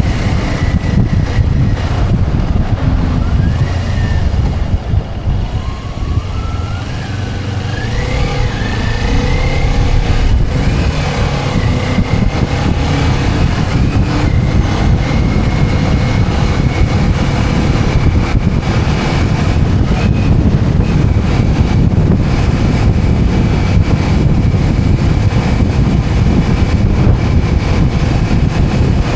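Motorcycle engine running on the move, with wind noise on the microphone; a few seconds in, a faint whine climbs in steps as the bike accelerates.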